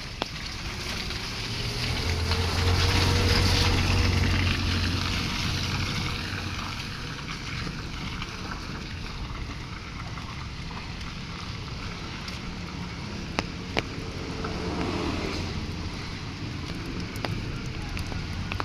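Road traffic in light rain: a motor vehicle passes close by, loudest about three seconds in, over a steady hiss of wet road and drizzle. A couple of sharp clicks come about two-thirds of the way through.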